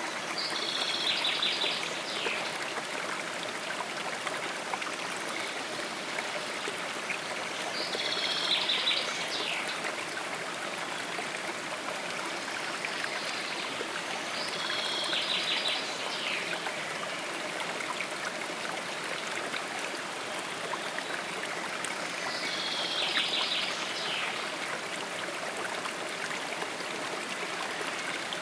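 Steady rush of a stream's running water, with a songbird singing the same short, high trilled phrase four times, about every seven seconds.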